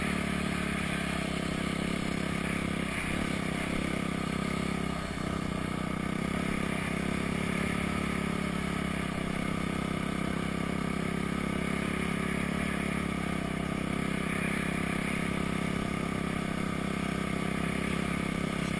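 Honda CRF250X four-stroke single-cylinder dirt bike running while being ridden on a motocross track. The sound is steady, with a brief dip about five seconds in.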